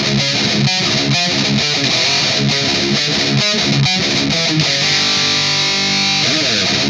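Distorted electric guitar playing a riff of quick picked notes, then a chord held for over a second about five seconds in, followed by a short slide in pitch before the picking resumes.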